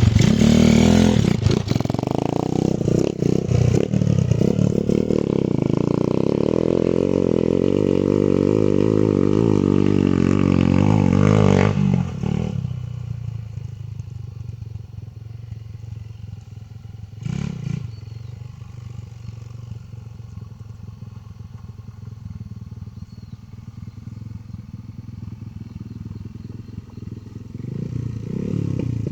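Honda CG 150 motorcycle's single-cylinder four-stroke engine revved up and held high, its pitch then sliding down to a steady idle about twelve seconds in. It idles with one short throttle blip in the middle, and the revs climb again near the end.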